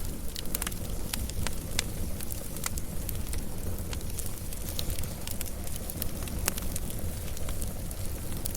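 Wood fire burning with a steady low rumble and hiss, and frequent irregular sharp crackles and pops of the burning wood.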